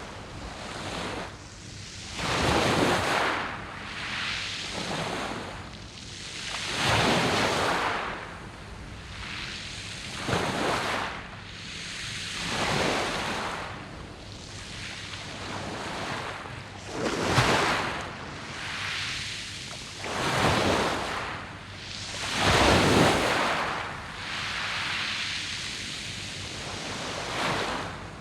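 Waves breaking on a beach of round pebbles. Each one comes in as a loud rushing surge and washes back, swelling and fading every two to four seconds.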